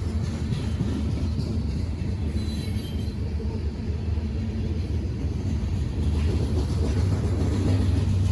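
Train rumbling by, a steady low rumble that grows a little louder near the end.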